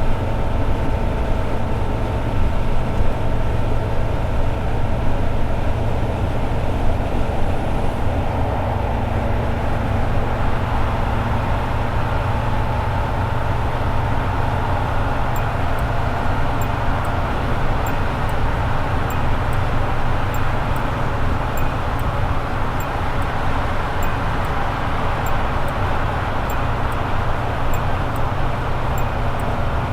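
Toyota AE86 Sprinter Trueno's 4A-GE four-cylinder engine running at a steady highway cruise, with a heavy low drone of exhaust and road noise. The engine note shifts slightly about eight to ten seconds in.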